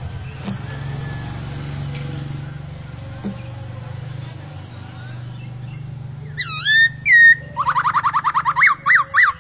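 A low steady hum with a few faint clicks, then about six seconds in a poksai (laughingthrush) breaks into loud song: a few curved whistled notes, a fast trill of about ten notes a second, then loud rising-and-falling whistles.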